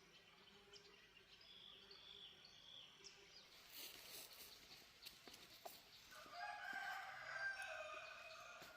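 A rooster crowing once, a long call starting about six seconds in, heard faintly over quiet surroundings.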